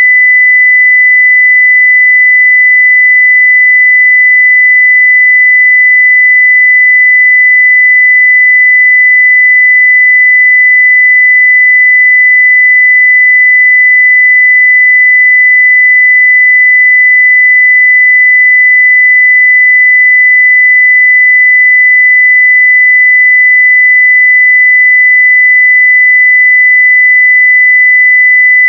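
A steady 2 kHz sine-wave test tone at full level, one pure unchanging pitch.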